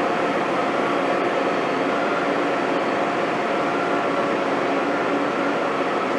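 Heavy diesel construction machinery running steadily: a continuous drone with several steady tones over a noisy hum.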